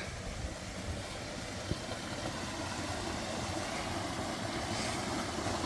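Steady rush of running water from a small woodland stream, with a low, uneven rumble beneath.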